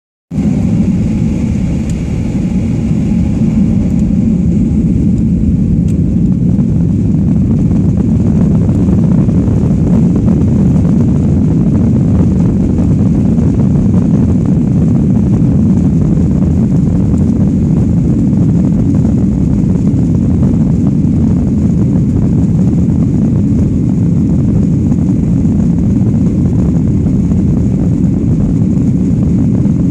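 Aeroplane engines at takeoff power: a loud, steady, low noise that starts abruptly and holds, with fainter higher tones fading out in the first few seconds.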